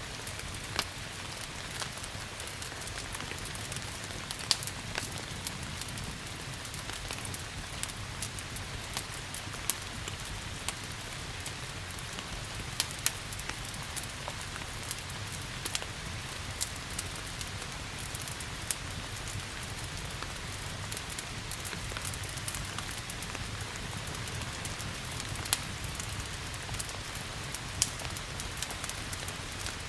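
Wood fire crackling with irregular sharp pops over a steady hiss of rain, with a low steady rumble underneath.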